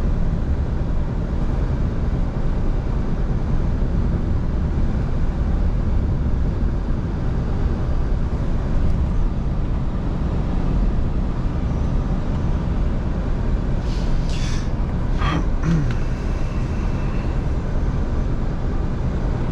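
Scania V8 truck driving at a steady pace, with continuous engine and road noise. About 14 seconds in there is a brief higher-pitched chirping sound.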